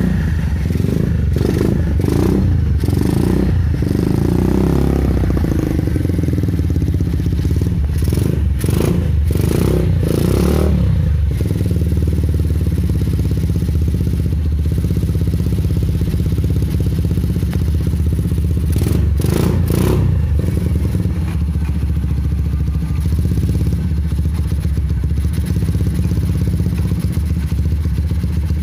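Single-cylinder Honda Megapro engine, bored up to 250cc, running steadily through a PDK racing exhaust, loud and low. A few short knocks or clatters come through in the first half and again about two-thirds of the way in.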